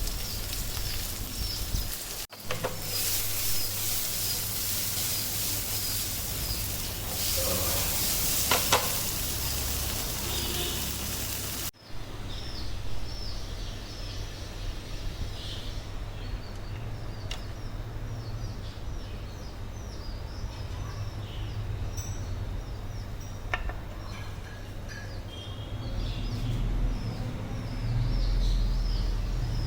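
Food sizzling in a frying pan, with birds chirping repeatedly in the background. About twelve seconds in, the sizzling stops abruptly, leaving the bird chirps over a low hum.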